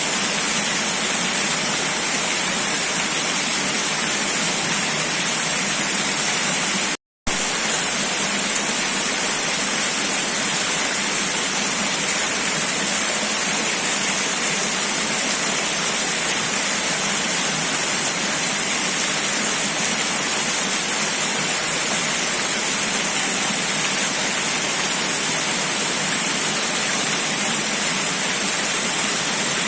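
Steady, unbroken rushing noise of water and wind, an even hiss strongest in the treble. It cuts out completely for a split second about seven seconds in, then carries on unchanged.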